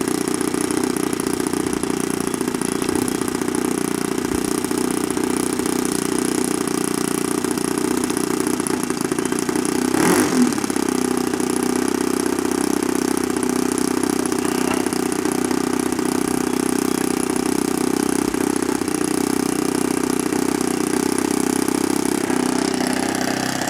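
Model airplane's small internal-combustion engine running steadily at one speed, with a brief change in pitch about ten seconds in.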